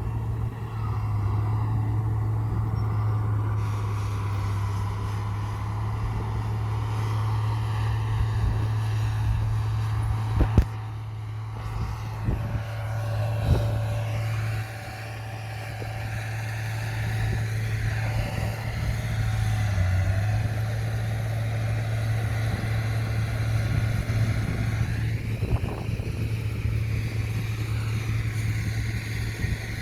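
Heavy earthmoving machine's diesel engine running steadily with a deep hum, with a couple of sharp knocks about ten and thirteen seconds in and a short dip in loudness just after.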